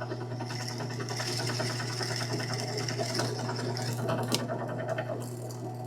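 Drill press running with its bit boring a hole through plywood: a steady motor hum under a dense, fine cutting rasp that starts about half a second in, with a couple of sharp ticks near the end.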